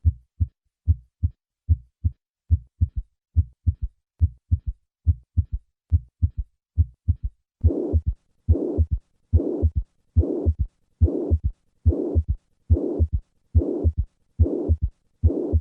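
Heart sounds on auscultation, about 80 beats a minute. Normal first and second heart sounds come first, and a third heart sound is then added. From about halfway, a pansystolic murmur of mitral regurgitation fills each systole up to the second heart sound.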